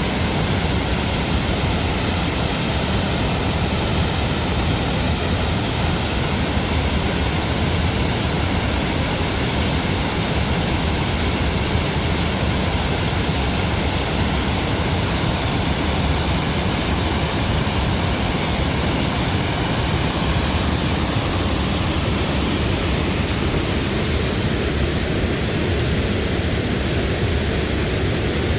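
Waterfall rushing with a constant, even roar.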